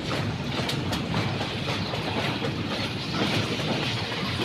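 Train running on the rails, a steady rumble with light wheel clatter.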